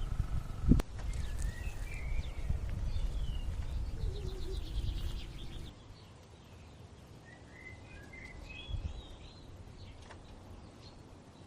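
Small birds chirping in short twittering phrases, twice, over a low rumbling noise that stops about halfway through. A single sharp knock comes just under a second in.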